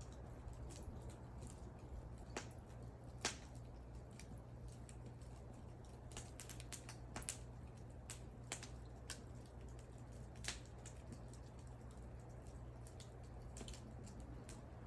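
Wood fire crackling: scattered sharp pops and snaps at an irregular pace, the loudest a little after three seconds and again about ten seconds in, over a low steady rumble of the burning.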